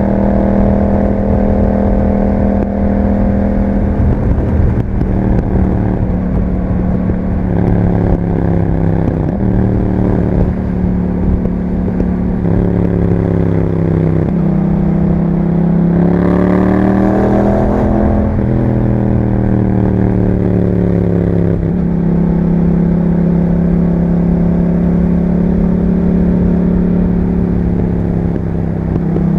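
2021 Yamaha MT-07 parallel-twin engine running through an Akrapovič exhaust while riding. The pitch shifts in steps through several gear changes, rises briefly and falls back about halfway through, then settles into a steady cruise for the last several seconds.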